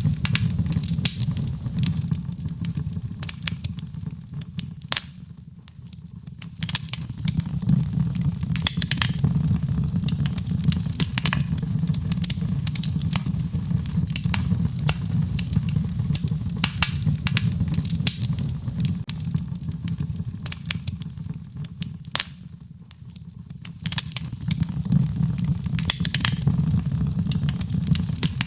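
Wood fire crackling in a fireplace: frequent sharp pops and snaps over a steady low rumble. The sound thins out briefly twice.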